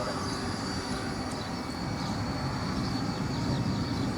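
Steady jet aircraft engine noise with a thin, steady high whine.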